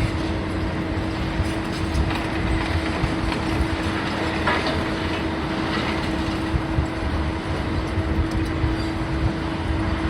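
Heavy machinery running steadily: a constant low rumble with a steady droning hum and a few faint clicks and knocks.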